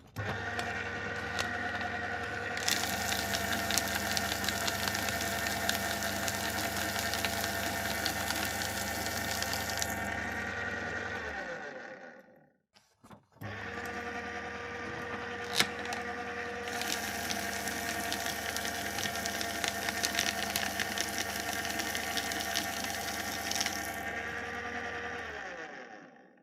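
Electric paper shredder, twice: the motor starts with a steady hum, paper is fed in a few seconds later and shreds with a loud rasp for about seven seconds, then the motor runs on briefly and winds down with a falling pitch. The second run starts about a second after the first has stopped.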